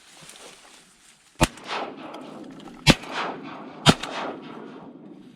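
Three shotgun blasts, about a second and a half then a second apart, each trailing off in a rolling echo: a duck hunter firing at a bird at long range.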